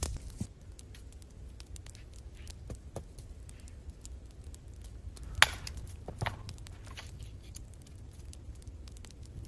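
Wood fire crackling with scattered small pops and a sharper snap about five and a half seconds in, over a low steady rumble.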